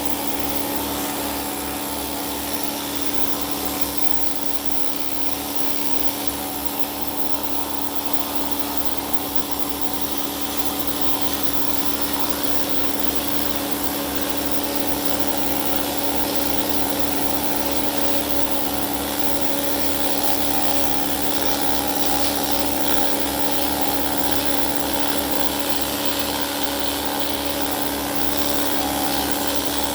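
Pneumatic needle scaler running steadily, hammering grime off an LS engine block, with a constant buzzing tone.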